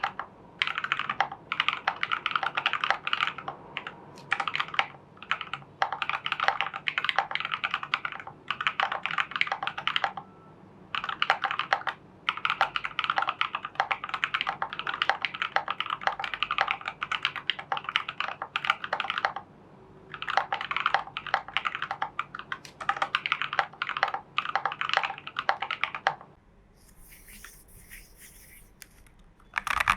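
Typing on a custom Hades v1.3 mechanical keyboard with Prevail Epsilon switches, Durock v2 stabilisers and Geekark BOW keycaps: fast runs of key clicks broken by short pauses. The typing stops for about three seconds near the end, then starts again.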